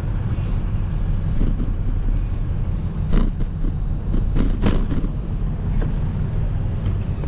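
Steady low rumble of wind and road noise from a moving bike, with a few short knocks about three seconds in and again around four and a half seconds.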